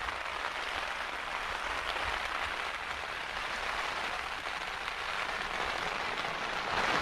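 Heavy rain falling steadily on a tent, heard from inside, a continuous even hiss that swells a little near the end.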